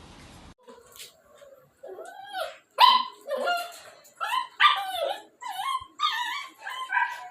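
Shih Tzu puppy barking in a quick run of short, high-pitched yips, starting about two seconds in.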